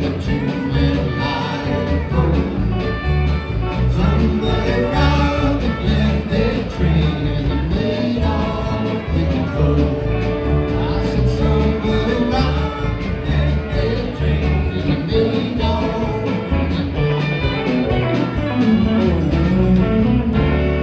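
Live band playing a country-rock song, with guitars, bass and singing.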